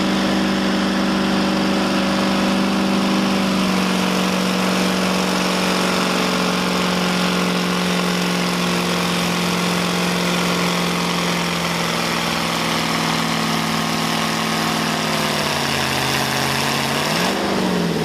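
Engine of a pull vehicle running hard under load, a steady loud note whose pitch sinks slowly over about fifteen seconds. Near the end it rises briefly and falls away again.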